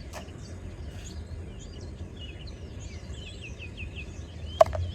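Songbirds chirping and singing outdoors in the morning, many short calls, over a steady low rumble. A single sharp click near the end is the loudest sound.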